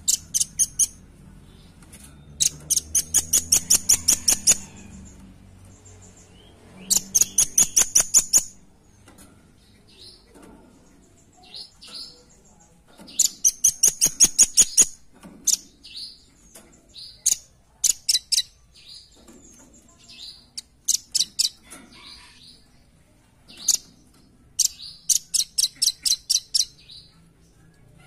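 Velvet-fronted nuthatch calling: rapid runs of sharp, high notes, each run about two seconds long, repeated several times with pauses and scattered single notes between.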